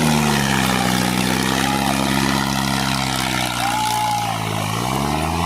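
Tractor's diesel engine running steadily, its pitch sagging a little at first and then climbing as it revs up near the end.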